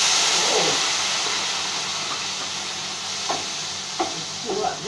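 Food tipped into hot oil in a frying pan on a gas stove, sizzling loudly and slowly dying down. A utensil clicks against the pan a few times in the second half as the food is stirred.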